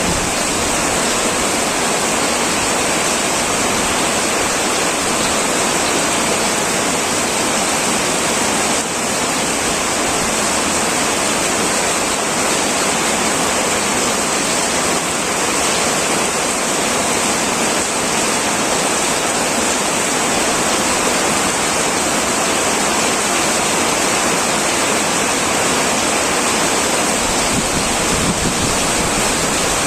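Heavy rain drumming on a metal roof: a dense, steady downpour hiss with no breaks or changes.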